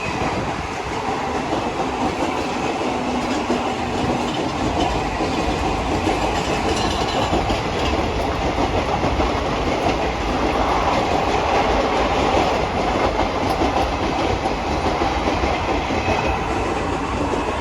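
Mumbai suburban local train running steadily, its wheels clicking over the rail joints under a continuous rumble.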